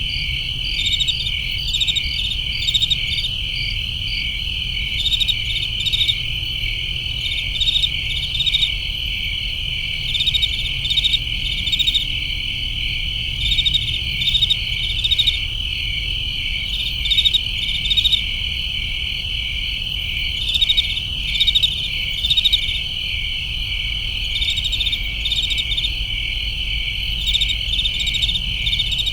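Crickets chirping in a dense chorus: a steady high trill with pulsed chirps repeating on top, over a low steady rumble.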